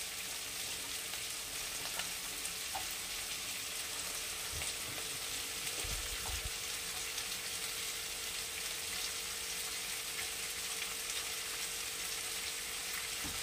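Chopped vegetables (carrot, potato, capsicum, tomato and sliced French beans) frying in oil in a kadai, giving a continuous even sizzle. A couple of faint soft thumps come about halfway through.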